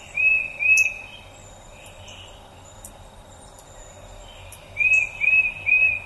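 A songbird calling in short, loud, slurred whistled notes: two near the start and three more near the end. Fainter thin high chirps sound over a steady outdoor background.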